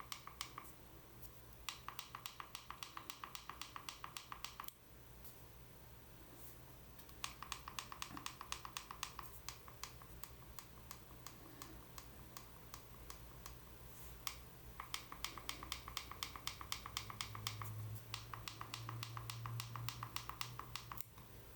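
Faint rapid ticking from a pellet stove control board on a test bench, about ten ticks a second in bursts of two to four seconds with pauses between, over a steady low hum of the running fan motors. The hum strengthens for a few seconds near the end.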